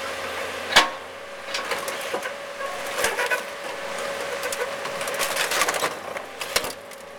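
Excavator working over a Mercedes 300D car body: a steady machine whine with sharp knocks and crunches of the car being hit. The loudest knock comes about a second in, with another a couple of seconds later and a run of crackling clicks near the end.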